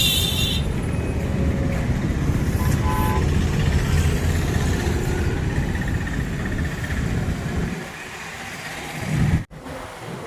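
Outdoor background noise dominated by a ragged low rumble, like traffic or wind on the microphone, with a sudden brief dropout near the end.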